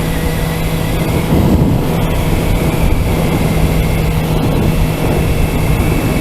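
Sport motorcycle engine running at a steady speed under way: a constant, even drone over a steady rush of noise.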